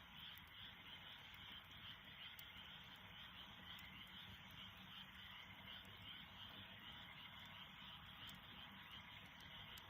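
Faint campfire with a few small crackling pops, over a steady, pulsing chorus of frogs.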